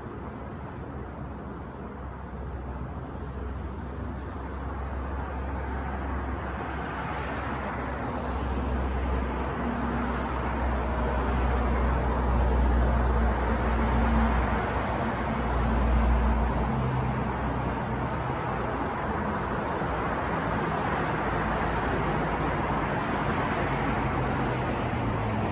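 City street traffic: a steady wash of passing vehicles with a deep rumble that swells to a peak partway through, as a heavier vehicle goes by, then eases off.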